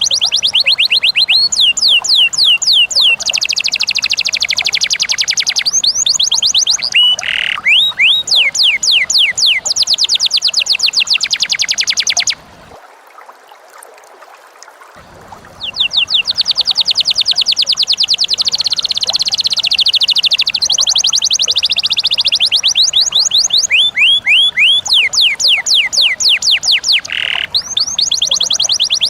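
Pet cage bird singing long, fast trills of clean, falling whistled notes repeated many times a second. The trills break off for about three seconds near the middle, then go on.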